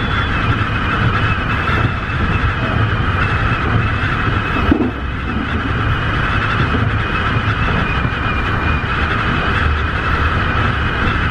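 Tobu 50090-series electric train running at a steady pace, heard from on board: a constant rumble of wheels on the track with a steady high motor whine over it.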